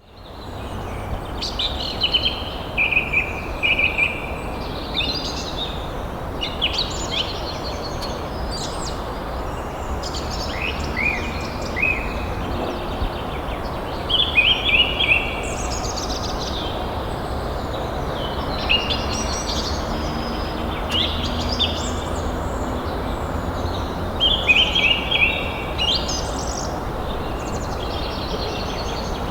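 Songbirds singing and calling in short phrases of quick chirping notes that recur every few seconds, over a steady background hiss of outdoor noise.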